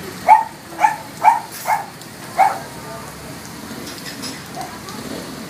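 A dog barking five times in quick succession over the steady patter of rain.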